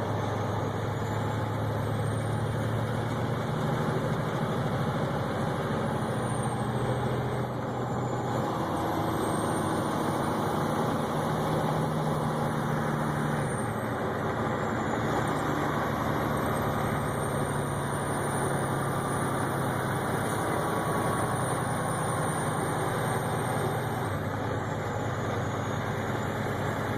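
A vehicle's engine and road noise heard from inside the cab while driving: a steady low drone whose pitch drifts slightly, over constant rushing noise.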